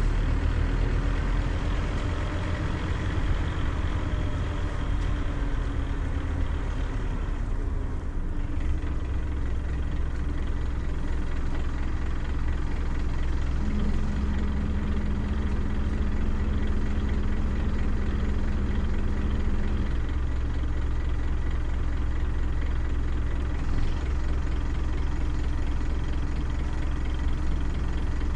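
Scania CN270UB city bus's diesel engine running; its note eases down and settles into a steady idle about eight seconds in. A steady low hum joins it for several seconds in the middle.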